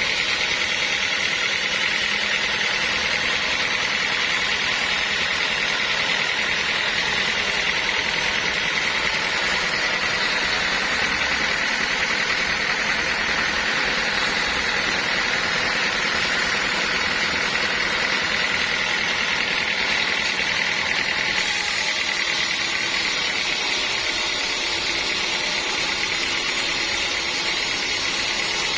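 Sawmill machinery running steadily, a continuous mechanical drone with a strong mid-high hum that holds an even level throughout.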